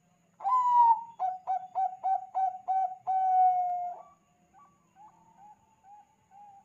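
Zebra dove (Bangkok perkutut) cooing: a loud phrase of one long note, then a quick run of five short coos and a long held note. Fainter short coos follow near the end.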